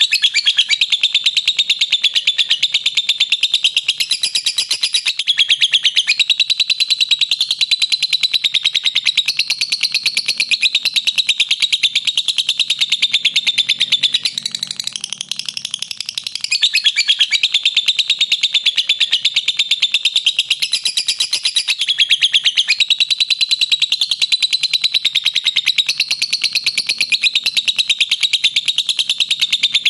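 Lovebird ngekek: a long, unbroken run of fast, shrill chattering notes, with a short softer stretch about halfway through before it picks up again.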